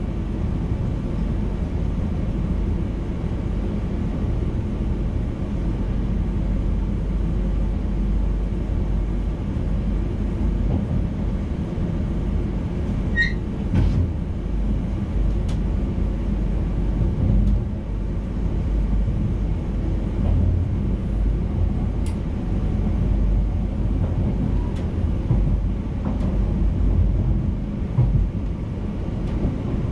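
NS VIRM double-deck electric intercity train running along the line, heard from its driver's cab: a steady low rumble of the running train, with scattered light clicks and one brief high squeak about 13 seconds in.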